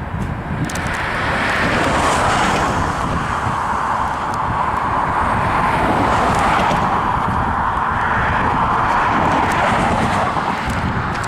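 Loud, steady rushing of passing vehicle noise with a low rumble underneath, swelling slightly a couple of times.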